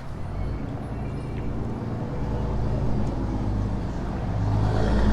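A motor vehicle's engine running with a steady low rumble that grows louder through the second half.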